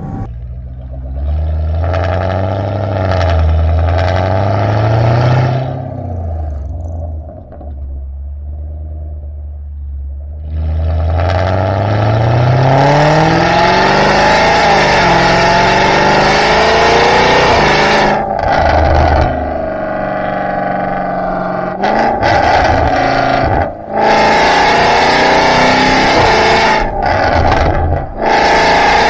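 Range Rover SVR's supercharged 5.0-litre V8 through an FIE full exhaust system with downpipe, running at a low burble whose pitch climbs around 5 and 11 seconds in. From about 12 seconds in it revs loud and hard, pitch rising and falling, with brief dips near 18, 24 and 28 seconds.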